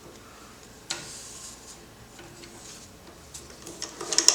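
Industrial double-needle sewing machine on a treadle, mostly still, with one sharp knock about a second in and a few faint ticks. Near the end it picks up again into rapid stitching clicks.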